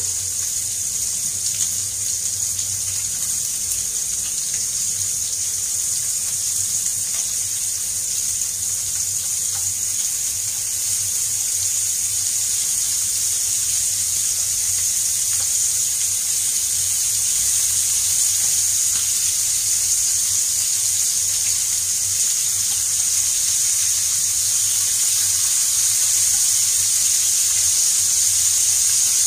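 Beef ribs frying in oil in a pan: a steady, high sizzle that grows a little louder in the second half.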